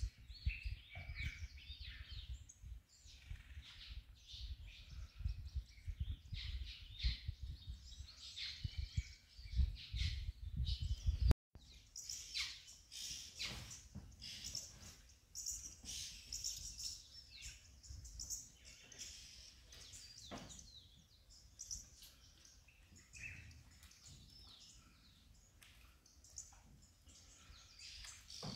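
Wild birds chirping and calling, many short calls overlapping. A gusty low rumble lies under them for the first third, until the sound drops out for a moment about eleven seconds in; after that the birdsong stands out more clearly.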